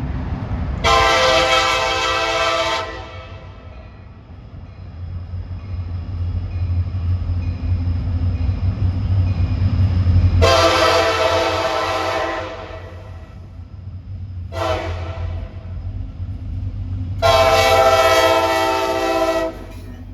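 Diesel locomotive air horn sounding the grade-crossing signal: long, long, short, long, over the low rumble of the approaching locomotive.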